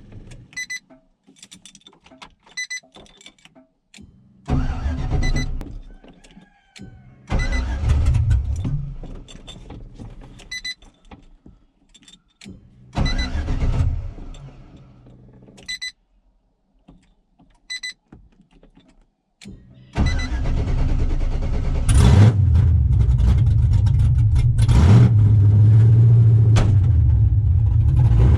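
LS-swapped Chevy truck's V8 being cranked in several short tries before it catches about twenty seconds in and keeps running, blipped twice soon after. A hard cold start on a frosty morning, which the owner puts down to the truck having sat too long.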